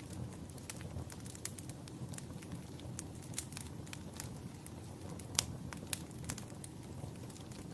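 Wood fire in a fireplace crackling, with many small irregular pops over a steady low rumble and one sharper pop about five and a half seconds in.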